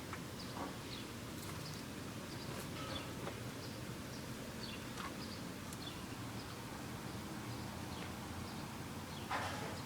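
Small birds chirping in short, scattered calls over a steady low background rumble, with one louder, noisier call or rustle about nine seconds in.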